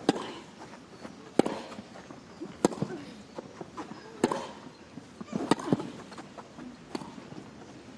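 A baseline tennis rally: sharp racket-on-ball strikes about every one and a half seconds as the two players hit the ball back and forth.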